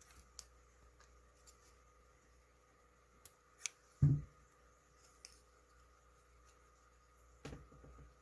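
Scattered small clicks and taps of hard parts being handled, with one dull knock about four seconds in and a short cluster of clicks near the end, over a faint steady hum.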